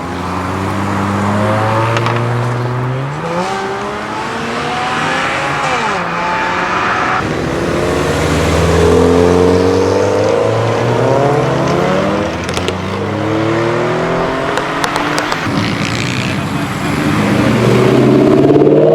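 Modified cars accelerating away one after another, their engines revving up through the gears in several rising pulls, with a few sharp exhaust pops along the way.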